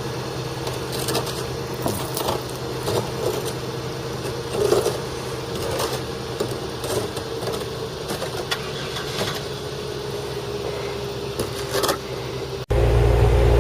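Car engine idling steadily, with keys jingling and clicking now and then. Near the end it cuts suddenly to a louder, deeper hum.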